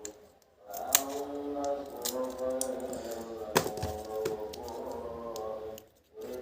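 Background music with held notes, over sharp clicks and taps of puzzle pieces being handled and fitted together; the loudest clicks come about a second in and about halfway through.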